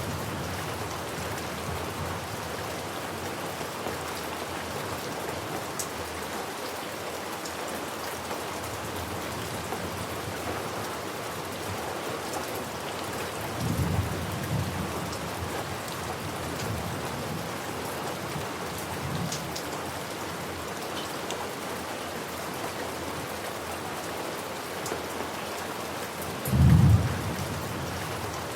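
Steady rain hissing on surfaces, with thunder rumbling low in the background: a moderate rumble about halfway through and a short, loud one near the end.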